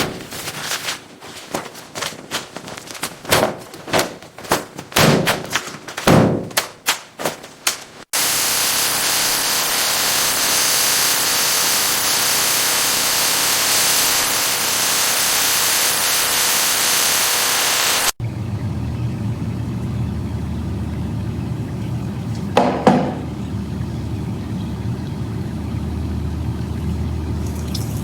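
A rapid, irregular string of sharp impacts, then a sudden switch to a loud, steady hiss for about ten seconds, then a steady low hum with a single knock partway through.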